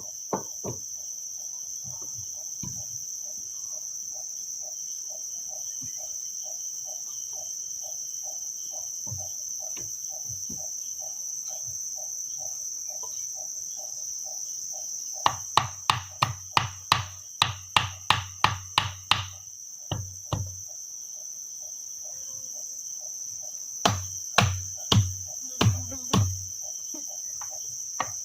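Steady high-pitched drone of forest insects such as crickets or cicadas. It is broken by two runs of sharp, evenly paced blows, about three a second: a dozen or so about halfway through and a shorter run near the end, like a blade or tool striking wood.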